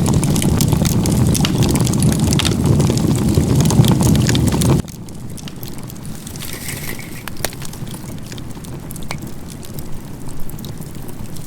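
Wood fire of firewood stacked in a log-cabin crib (igeta-gumi), burning with a loud, steady rush of flame and frequent sharp crackles. About five seconds in, the sound drops suddenly to a quieter burn with scattered pops.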